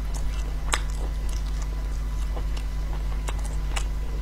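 Chewing with a few small, sharp clicks as cooked sea snails are pried out of their shells by hand, over a steady low hum.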